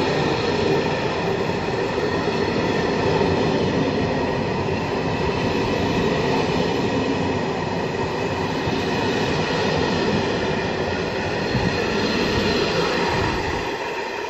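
Passenger train of České dráhy coaches rolling past, steady wheel-on-rail noise with a held whine. It fades near the end as the last coach pulls away.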